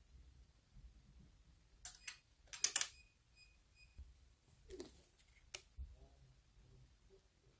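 Slime being played with by hand: a few sharp clicking, crackling pops, most of them in a cluster about two to three seconds in, and a single click near the end.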